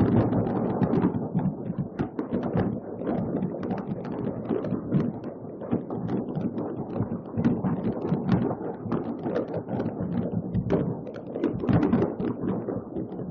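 Many fireworks going off at once in a continuous dense crackle of pops and bangs, layered over a steady low rumble.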